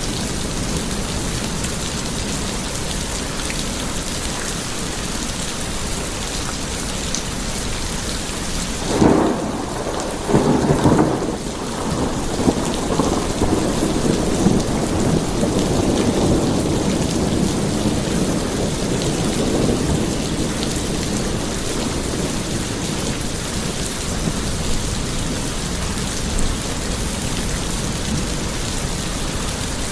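Steady heavy rain on a surface, with a thunderclap about nine seconds in. A second crack follows, and the thunder rolls on as a long low rumble for several more seconds before the rain alone continues.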